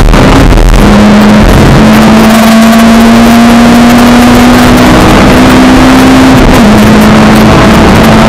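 Honda Civic EP3 Type R's K20A2 four-cylinder engine running hard at high revs, heard from inside the cabin at full volume. Its note holds high and steady, with a short break around the start and a brief dip in pitch about two-thirds in.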